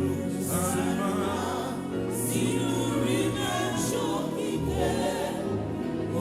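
Live gospel worship music: several voices singing together over sustained low chords that change every couple of seconds.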